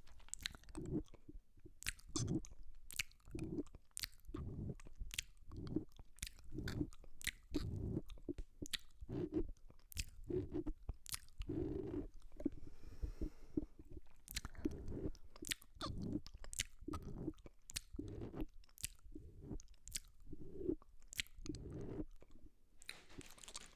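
Close-miked ASMR mouth sounds: a continuous run of wet smacks and clicks from lips, tongue and saliva at the microphone, about one to two smacks a second with sharp clicks between.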